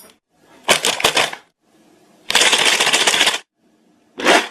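A person making mouth sounds: three separate noisy, crackling bursts, the middle one the longest at about a second.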